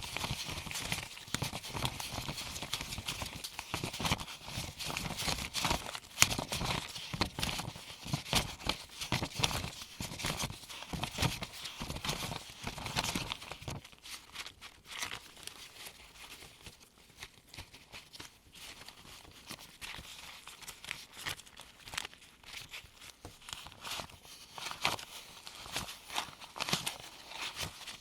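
Gloved hands counting US one-dollar paper bills from hand to hand: a fast run of crisp flicks and rustles, growing quieter and sparser about halfway through.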